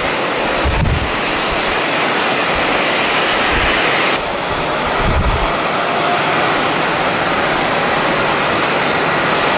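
Jet airliner noise, a steady loud rush, with strong wind buffeting the microphone in low rumbling gusts several times.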